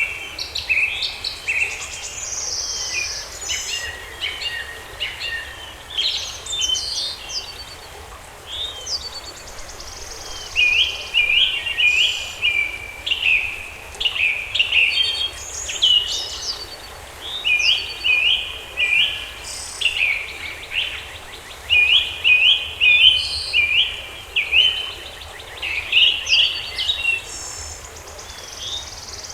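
Several songbirds singing and chirping in a forest. Short, quick repeated chirps overlap with higher trills, and the chirping becomes a steady rapid run about a third of the way in.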